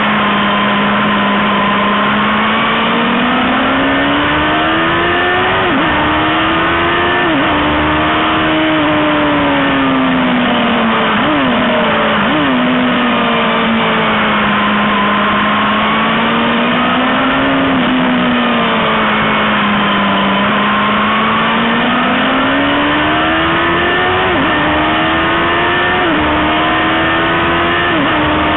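2002 Yamaha R1's inline-four engine running hard on track, its note swelling and sagging over several seconds at a time, with quick drops in pitch at gear changes, several of them bunched near the end. A steady rush of wind noise is on the helmet-mounted microphone.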